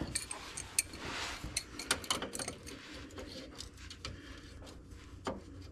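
Irregular metal clicks and clinks of a hand wrench working a rear shock absorber's mounting bolt on a Jeep Wrangler, while the nut on the back side spins with the bolt. The clicks come thickest in the first couple of seconds and then thin out, with one more a little before the end.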